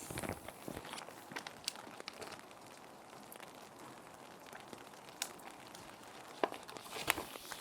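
Plastic sheet protectors crinkling and rustling as paper sheets are handled and slid into them, with sharp crackles clustered in the first second and again near the end, over a steady hiss of rain.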